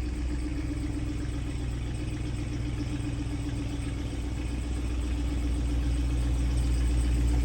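Truck engine running steadily at low speed, a low hum with a steady drone, getting somewhat louder near the end.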